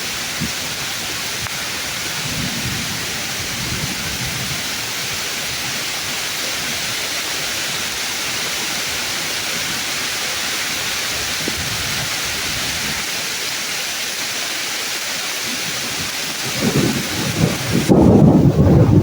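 Steady heavy rain pouring on the trees of a woodland. A loud roll of thunder builds up about two and a half seconds before the end and is loudest at the close, while the rain's hiss drops away suddenly just before the end.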